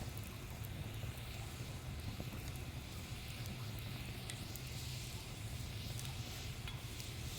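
Wood fire burning in a small fire pit, with scattered faint crackles over a steady low rumble.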